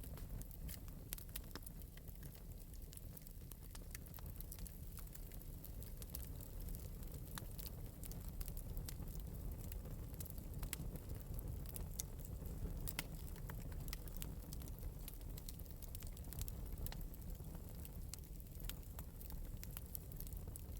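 Fire in an open metal fireplace crackling, with sharp pops scattered irregularly over a low, steady rumble.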